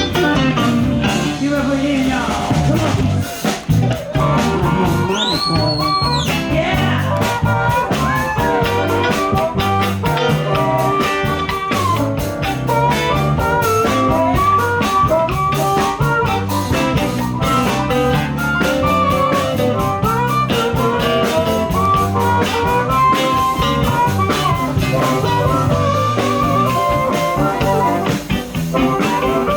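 Blues-rock band playing live, with electric guitar and drum kit, in a stretch without singing. About five seconds in, a high note bends up and back down.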